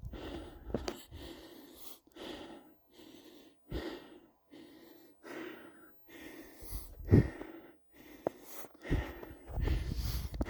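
A hiker's breathing and footsteps on a snowy trail, coming as separate noisy bursts about once a second.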